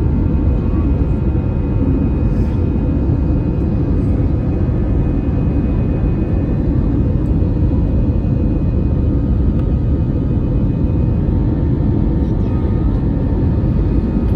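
Airliner engines heard from inside the passenger cabin: a loud, steady roar with several steady whining tones over it.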